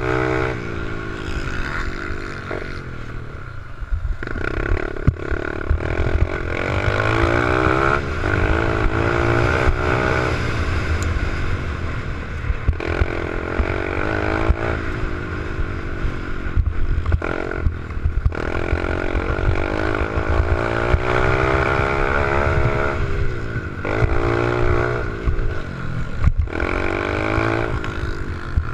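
Small pit bike engine being ridden, revving up and down over and over, its pitch rising and falling every few seconds, with a few sharp clattering knocks along the way.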